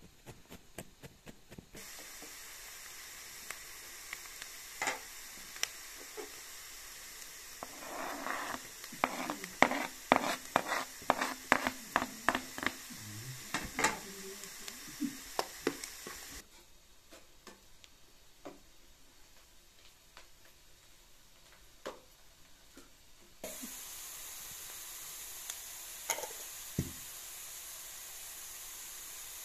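Chopped onion and garlic sizzling in oil in a frying pan, with a quick run of utensil knocks and scrapes against the pan partway through. The sizzle drops away for several seconds, then starts again. Before it, a few knife taps on a plastic cutting board.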